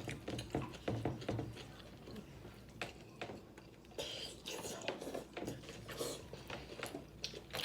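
Mouth and hand eating sounds from a seafood boil: irregular small wet clicks and smacks of chewing and of picking apart food with the fingers.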